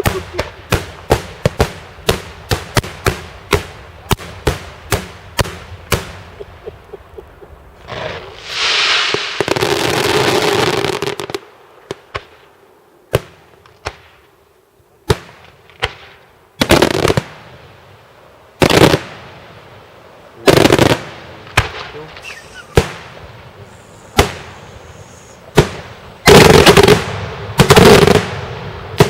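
Italian daytime fireworks: a rapid string of sharp bangs, about three a second, then a few seconds of hissing crackle. After a short lull come single heavy booms every second or two, building to dense crackling salvos near the end.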